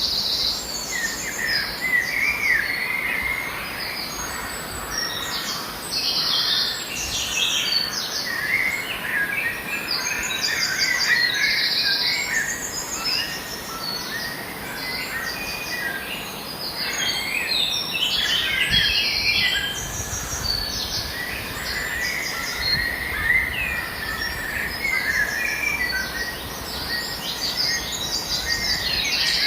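Wild birds calling and chirping, among them brown-eared bulbuls, with short high rapid-pulsed trills repeating every second or two over the chirps.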